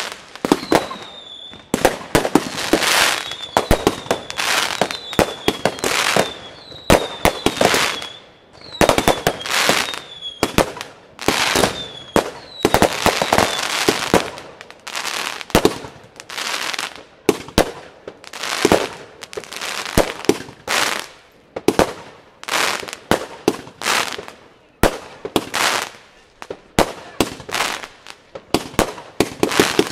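A 216-shot consumer firework battery firing rapid volleys of shots and loud bursting reports, with short falling whistles repeating through the first half.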